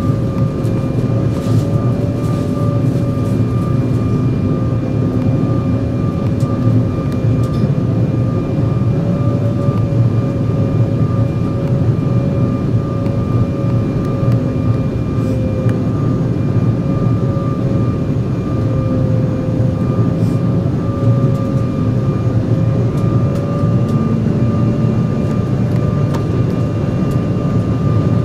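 Steady jet airliner cabin noise in an Embraer 175: a dense low rush of air and engines, with a steady whine from its GE CF34 turbofans that wavers slightly in pitch.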